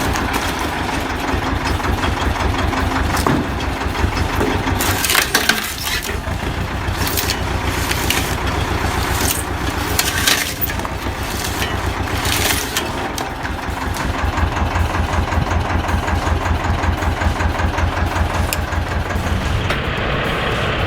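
Engine-driven wood chipper running with a steady, pulsing engine note while wood is fed through and crunched, with several loud cracks as pieces break, the biggest about five, ten and twelve seconds in.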